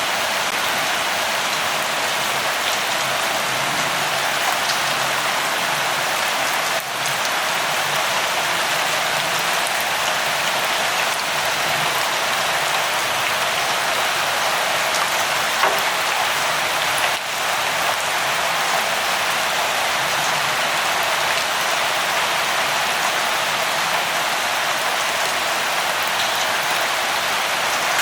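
Steady light rain falling, an even hiss that dips briefly twice, about 7 and 17 seconds in.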